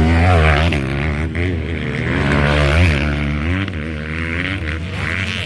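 Motocross bike engines running hard, their pitch rising and falling again and again as the riders work the throttle.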